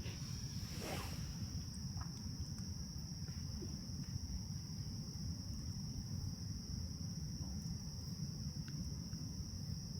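Crickets chirring in a steady, unbroken high drone, over a low steady rumble.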